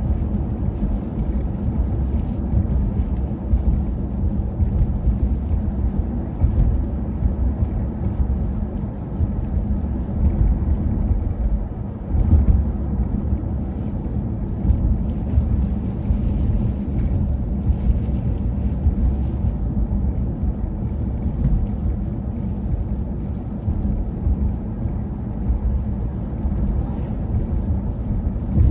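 Wind buffeting the microphone in a blizzard: a steady low rumble that gusts up and down.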